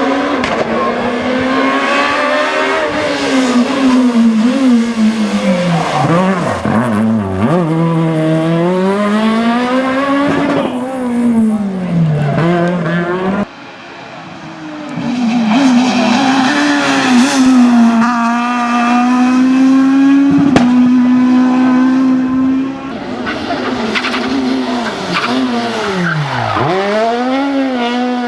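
S1600 rally cars' high-revving 1.6-litre four-cylinder engines driven flat out, the revs climbing and dropping again and again through gear changes and lifts. About halfway there is a sudden cut to another car, and near the end the revs drop sharply and climb again.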